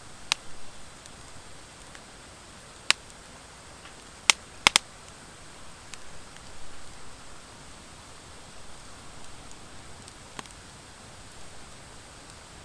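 Wood fire of driftwood and dry hardwood logs burning in a fire pit, with a steady hiss of flames and sharp crackling pops from the wood. There are about half a dozen pops, the loudest a quick cluster of three around the middle.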